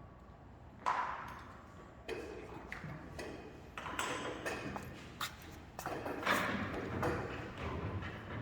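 Irregular metal clanks and knocks, some ringing briefly. The first sharp clank comes about a second in, and more follow at uneven intervals.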